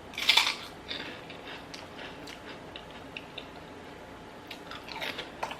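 A person chewing salad close to the microphone: wet mouth clicks and smacks, with a short crunchy burst about a quarter-second in and a few sharper clicks near the end.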